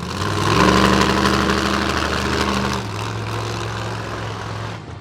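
Monster truck engine: it revs up hard about half a second in and holds high for about two seconds, then settles to a lower steady note and eases off near the end.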